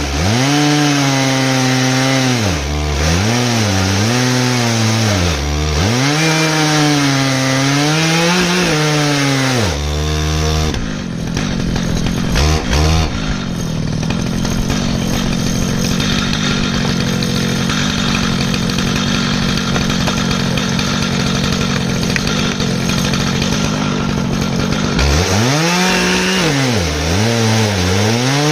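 Stihl MS 881 two-stroke chainsaw on an Alaskan mill, cutting through an ash log. For the first ten seconds the engine speed rises and falls repeatedly. It then holds a steady, rough note while the chain cuts, and near the end it rises and falls again.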